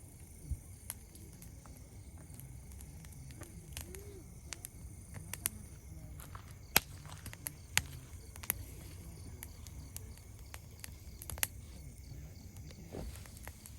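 Wood campfire crackling, with irregular sharp pops and snaps over a low, steady background.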